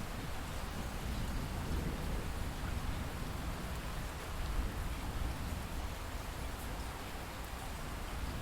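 Steady light rain: a continuous, even hiss of falling rain over a low rumble.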